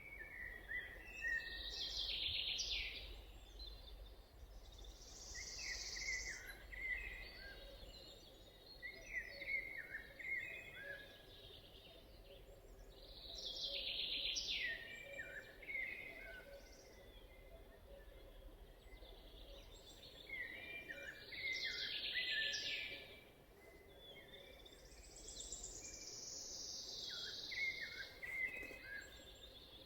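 Wild songbirds singing, with short song phrases that fall in pitch, repeated every few seconds over a faint low background rumble.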